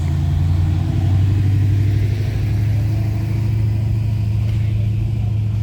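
A vehicle's engine idling nearby with a steady, deep rumble.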